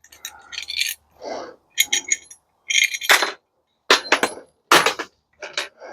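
Metal clinking and clanking from hand tools and loose parts while a dishwasher is taken apart: a string of sharp knocks and rattles, the loudest strikes coming about three, four and five seconds in.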